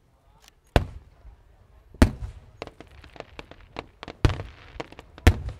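Fireworks going off: four loud bangs of bursting shells, with quicker, smaller pops and crackling between them.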